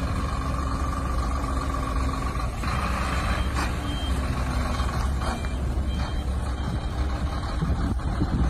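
Heavy truck engine running with a steady low rumble, with a short burst of hiss about two and a half seconds in and a few light clicks.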